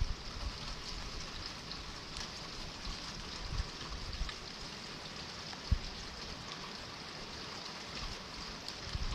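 Steady rain falling, an even hiss, with a few short low thumps, one clear one about two-thirds of the way through.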